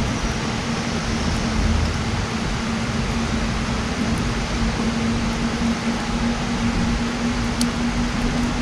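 Campfire burning with a steady rushing noise and a few sparse crackles, the clearest about three-quarters of the way in, over a steady low hum.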